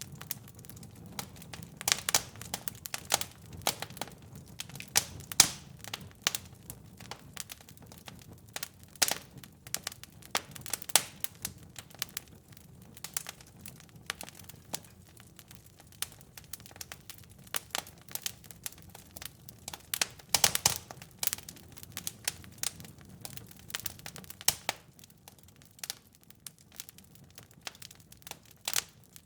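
Wood fire crackling, with irregular sharp pops and snaps over a soft low rumble of flames. A few louder pops stand out, near the start, about five seconds in and about two-thirds of the way through.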